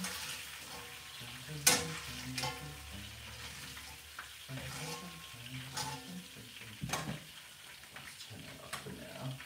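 Marinated chicken sizzling as it stir-fries in a pan on a gas stove, with a steady hiss. A utensil scrapes and clacks against the pan several times, the loudest clack about two seconds in.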